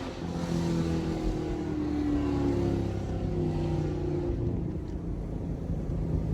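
Chevrolet Camaro SS 1LE's naturally aspirated V8 running at low revs, its note sinking slowly as the car eases off, then settling quieter near the end.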